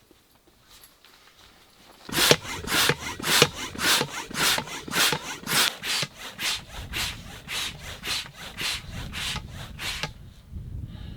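Hand saw cutting through wood in quick back-and-forth strokes, about three to four a second. It starts about two seconds in and pauses near the end.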